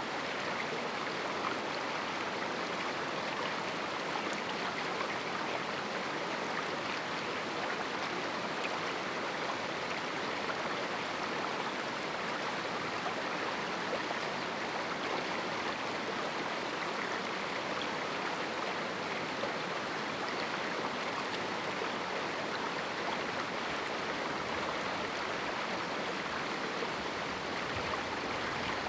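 A river flowing through a small canyon, its water rushing and splashing in a steady, unbroken stream noise.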